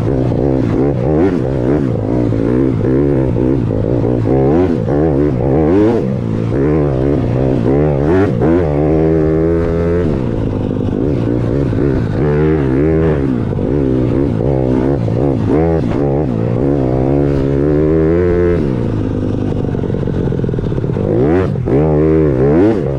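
Dirt bike engine revving hard while being ridden, its pitch climbing and dropping over and over.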